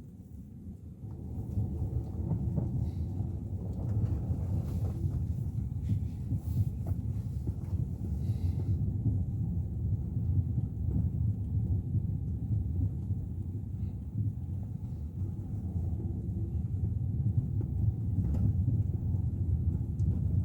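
Low, steady rumble of road and engine noise heard inside the cabin of a Suzuki Ertiga 1.4 manual while it is driven; it grows louder about a second in.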